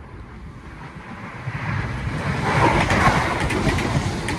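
Passenger train approaching and passing close by, its running noise building about a second and a half in and staying loud, with a quick run of wheel clatter over the track.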